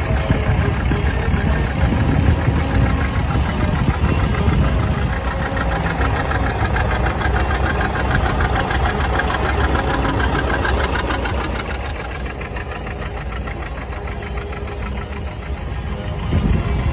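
Vintage tractor engine running with a steady, even firing beat, dropping in loudness about twelve seconds in.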